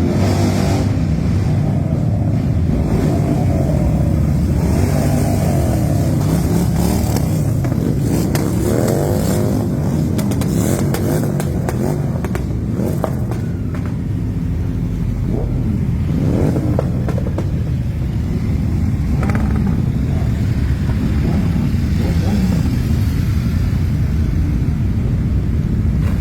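A procession of motorcycles riding past, many engines running together in a steady low rumble, with engine notes rising and falling as individual bikes pass and rev.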